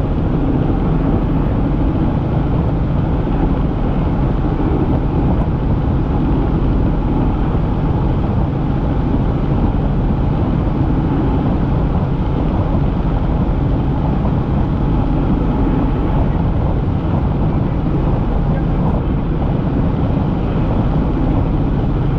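Helicopter in flight heard from inside the cabin: a loud, steady drone of engine and rotor that does not change.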